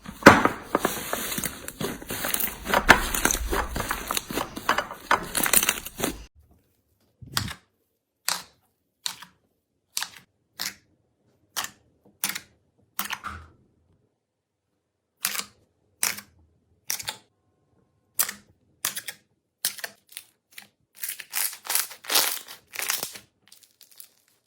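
Slime being squeezed and pressed close to the microphone: dense crackling and popping for about six seconds, then separate sharp pops about one a second with silence between, crowding together again near the end.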